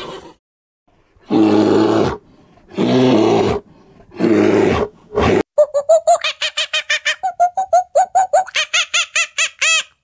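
Macaque monkey calls: three harsh grunting calls about a second apart, then a fast run of short, high squeaks, about four or five a second, until near the end.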